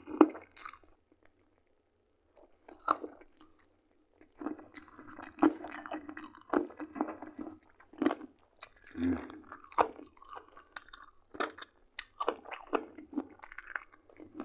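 Close-up chewing of oven-roasted chicken drumstick meat: wet mouth sounds with irregular sharp crunches and clicks, pausing briefly about a second in, then chewing steadily again.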